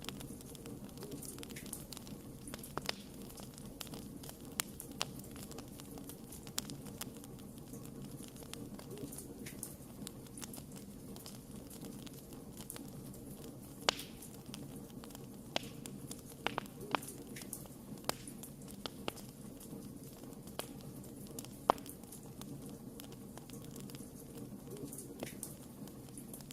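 Wood fire crackling: scattered sharp pops and snaps over a steady low background, with two louder pops about halfway and about four-fifths of the way through.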